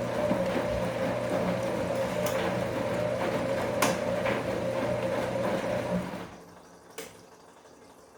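Bosch Komfort-Klasse washing machine moving water, a steady hum with rushing water that stops about six seconds in, followed by a single click about a second later.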